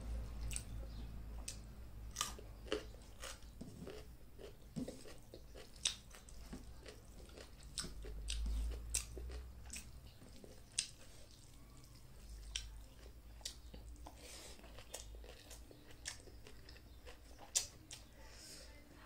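Close-up chewing of a mouthful of rice and salad eaten by hand, with many short, irregular crunchy clicks and mouth noises.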